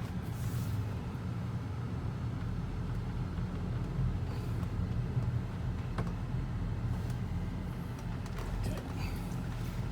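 BMW N52 3.0-litre straight-six running at low speed, a steady low hum heard from inside the cabin as the car is put in reverse and begins to move, with a couple of faint clicks. The engine is running evenly with a newly replaced crankshaft position sensor.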